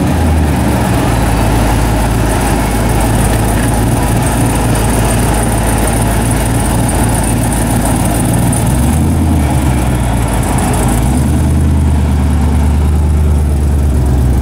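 1955 Chevrolet Nomad with an LS9 V8 idling with a steady, deep rumble. Around two-thirds of the way in, the engine note shifts lower and firmer as the car is put in gear and pulls away.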